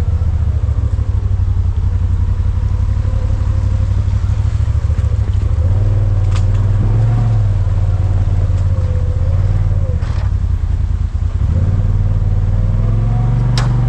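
Vehicle engine running at low speed over a rough creek-bed track, its pitch rising twice as it is given more throttle, with a few sharp knocks.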